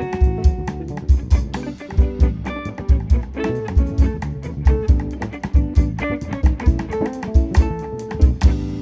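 Small jazz group playing live: guitar over double bass and drum kit, with a steady beat.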